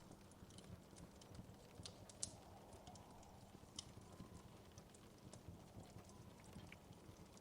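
Wood fire in a fireplace crackling quietly: irregular sharp pops and snaps over a low, steady rumble, with the loudest pops about two seconds in and just before four seconds.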